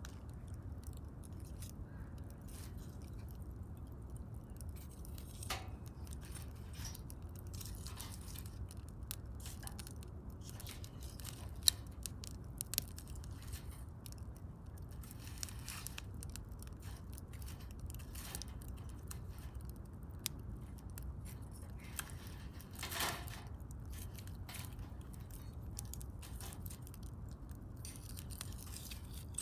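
Wood fire crackling, with scattered sharp pops and snaps over a low steady rumble; one pop about twelve seconds in is much louder than the rest.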